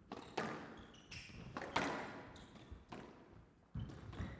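Squash rally: the ball cracks off rackets and the court walls, three strong strikes a second or two apart with lighter knocks, and short squeaks of court shoes between them in a reverberant glass court.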